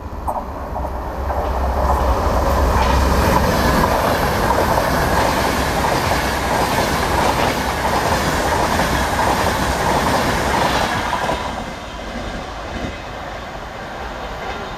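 A train passing through the station at speed without stopping: wheel and track noise builds over the first two seconds, stays loud for about nine seconds, then falls away sharply about eleven seconds in, leaving a quieter tail.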